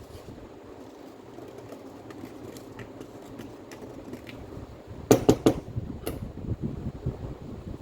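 A low steady background hum, then a quick run of three sharp clicks about five seconds in and one more a second later, like small metal parts or tools being handled on a bench.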